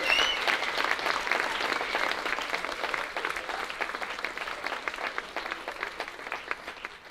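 Audience applause fading steadily, thinning into a few scattered claps near the end.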